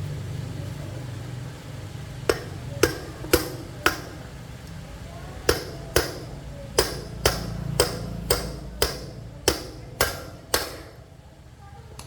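Hammer blows during motorcycle repair: four strikes, a short pause, then about ten more at a steady pace of roughly two a second, each ringing briefly, over a steady low hum.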